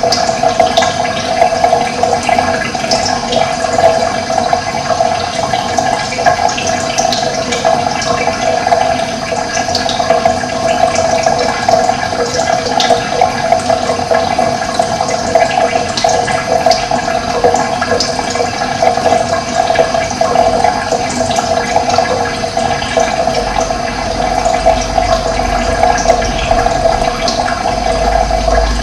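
Running water flowing steadily, a constant rushing, with brief high-pitched sounds every few seconds.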